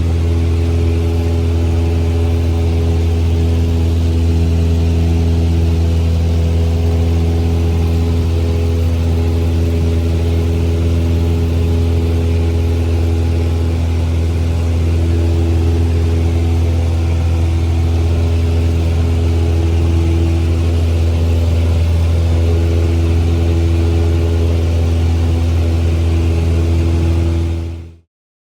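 Small airplane's piston engine and propeller droning steadily, a deep even hum with overtones. It cuts off quickly near the end.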